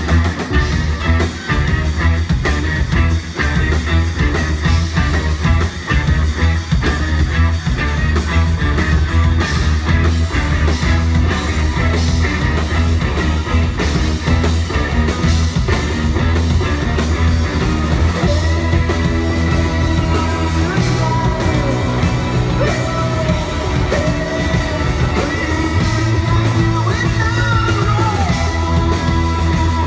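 Live rock band playing with a heavy bass line, drums and electric guitar, and a voice singing over it from about two-thirds of the way in.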